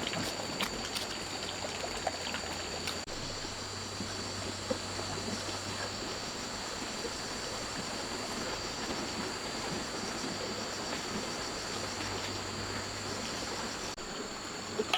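Steady rush of running, trickling water, with two steady high-pitched tones above it.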